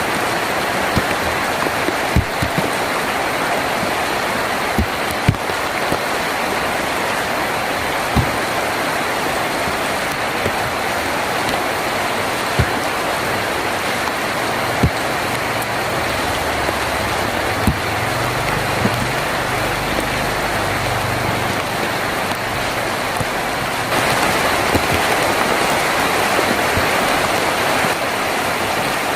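Steady heavy rain drumming on a tin roof, with separate louder drops striking now and then. A low rumble runs through the middle, and the rain grows louder about three-quarters of the way through.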